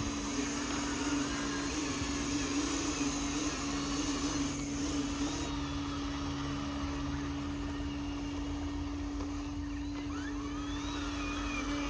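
Small electric motor of a handmade RC construction truck running with a steady, even hum.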